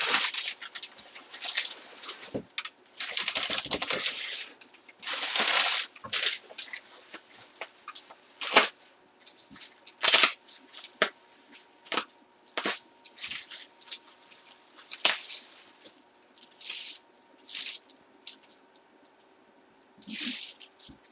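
Packaging around a full-size baseball bat being torn and crinkled open by hand, in irregular bursts of tearing with sharp cracks and crackles.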